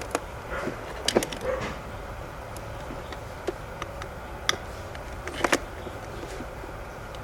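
Scattered light clicks and knocks of small parts being handled, the sharpest about a second in and near five and a half seconds in, over a low steady hum.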